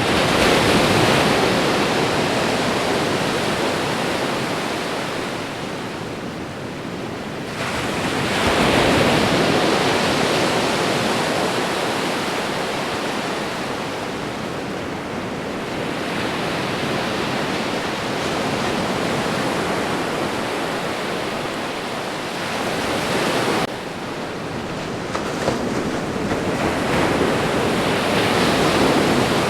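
Ocean surf: a continuous rush of breaking waves that swells louder three times, as each wave breaks and washes in, then eases between them.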